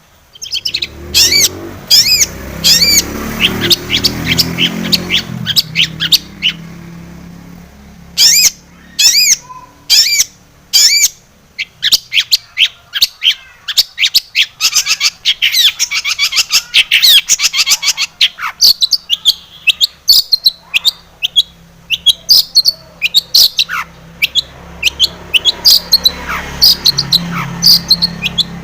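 Long-tailed shrike singing a rapid, scratchy song of short harsh chattering and squawking notes in quick volleys, the varied song with mimicked phrases that keepers call "full isian".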